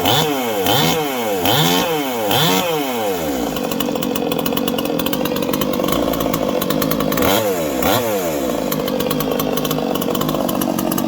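Ported 45cc Chinese two-stroke chainsaw running, revved up and dropped back about four times in quick succession, then settling into a steady run with one more rev about seven seconds in. It is running on a freshly fitted, more heavily ported cylinder for the first time.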